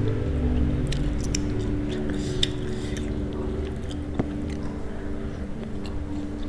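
Close-up chewing and biting of food, with crisp crunching clicks clustered in the first half.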